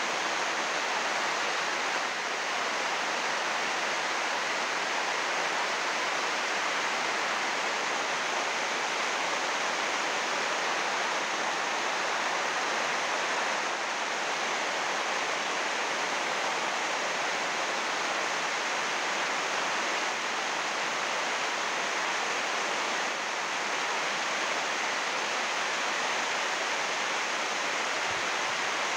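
Heavy rain falling on an 80-micron UV greenhouse plastic roof sheet: a steady, even hiss that does not let up.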